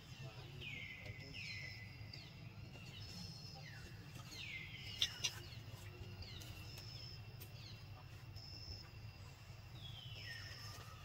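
A bird calling repeatedly, each call a downward-sliding whistle of about half a second, over a low outdoor rumble. Two sharp clicks about five seconds in.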